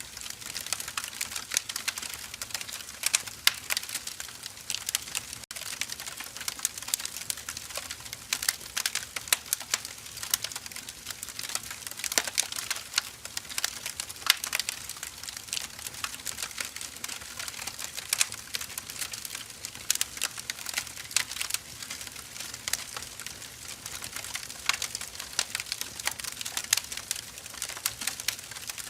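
Firewood burning in a fire, crackling and popping constantly with many sharp snaps over a soft hiss.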